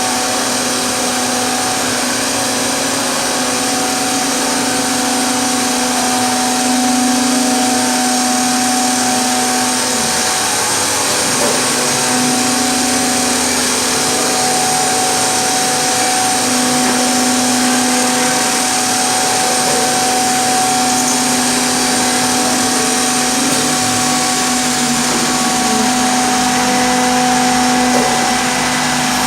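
Ten-head CNC mortising machine running steadily, its router spindles giving a constant whine over a broad machine rush.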